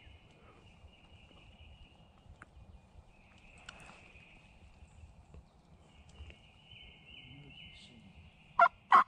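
Faint woodland background with a steady high trill. Near the end, a wild turkey breaks in loudly with a series of evenly spaced calls, about three a second.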